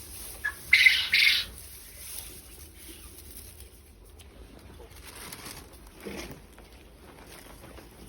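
Quail flapping their wings in two short bursts about a second in, preceded by a brief chirp.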